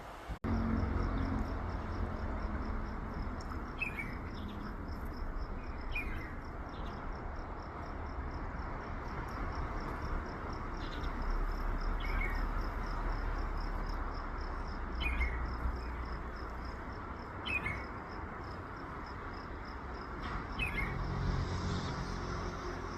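Outdoor ambience: a bird giving short, falling chirps every couple of seconds over a steady, rapidly pulsing insect trill, with a constant hiss and low rumble of wind underneath.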